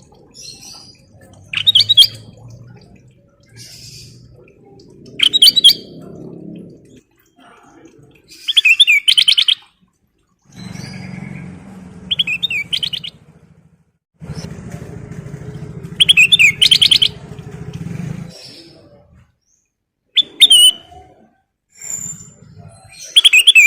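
Kutilang emas bulbul singing in short, loud phrases of rapid, fluttering high notes, a burst every two to four seconds.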